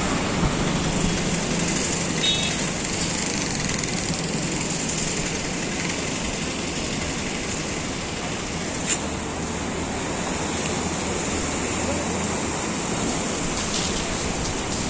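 Flooded river rushing past in a steady, even rush of water, with a low engine hum under it for the first few seconds and a single short click about nine seconds in.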